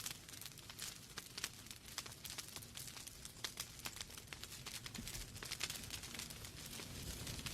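Wood fire burning in a fireplace: logs crackling with frequent small irregular snaps and pops over a soft hiss and low rumble of the flames.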